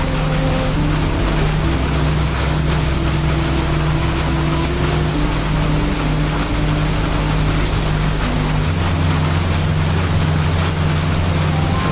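Steady, loud heavy rain mixed with brown noise, a continuous even hiss. Underneath, low sustained tones hold and shift pitch every few seconds.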